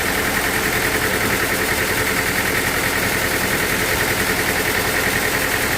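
Sawmill machinery's engine running steadily, with a fast, even pulse and no change in speed.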